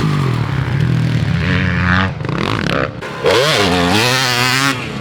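Dirt bike engine revving on a motocross track, its pitch rising and falling with the throttle, with a sharp rev a little past the middle.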